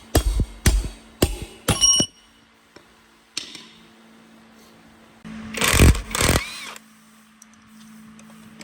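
Workshop hammer blows on motorbike metal: four sharp strikes in the first two seconds, the last one ringing. A few seconds later come two loud, short rushing bursts of noise.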